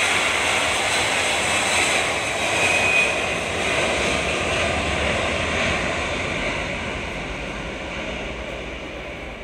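Jet engines of an Airbus A330-343 airliner at takeoff power, a steady jet rumble and hiss that gradually fades as the aircraft climbs away.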